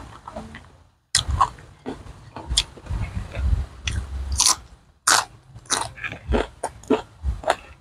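Close-up mouth sounds of a person biting and chewing crisp raw green vegetables, a quick run of sharp wet crunches after a brief silent moment about a second in.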